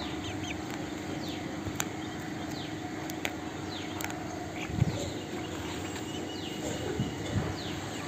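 Short, high chirps falling in pitch, repeated every second or so by birds, over a steady low hum, with a few sharp clicks.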